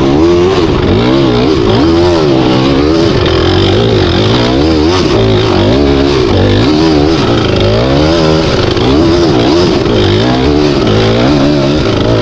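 Dirt bike engine revving up and down over and over as the throttle is worked, its pitch rising and falling about every second.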